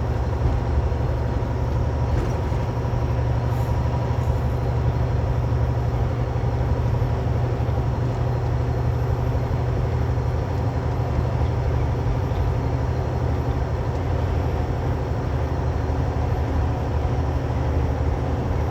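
Semi truck's diesel engine running at a steady pace, heard from inside the cab as a constant low drone, with road and wind noise over it.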